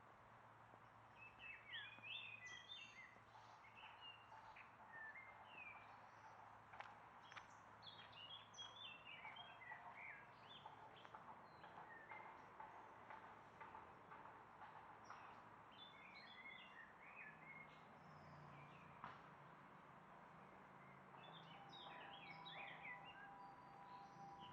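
Faint birdsong: quick chirping phrases in short bouts every few seconds, over a faint low hum.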